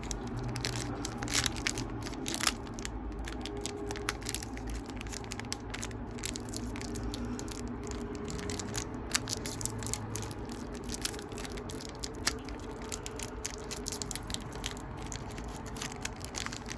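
Foil booster pack wrapper crinkling and tearing open, with a crackly run of scrapes and clicks as the trading cards inside are handled. A faint steady hum lies underneath.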